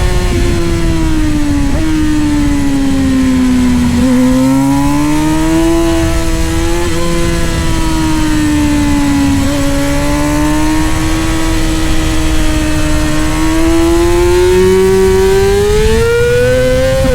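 Middleweight superbike's engine at racing revs, its pitch falling and climbing through the corners with small steps at gear changes, over a steady rush of wind.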